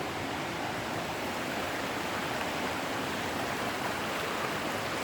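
Creek water rushing, a steady, even sound with no break.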